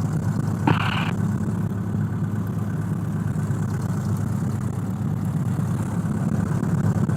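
Cessna 172's piston engine idling steadily, heard from inside the cockpit, with one short burst of noise about a second in.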